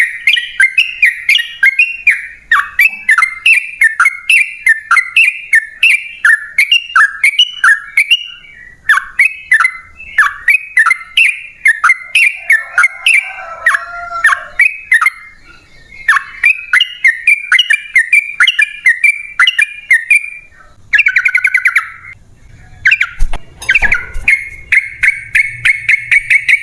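Yellow-vented bulbul (trucukan) singing a long, fast run of short chattering notes, about three to four a second. The song breaks off briefly a few times.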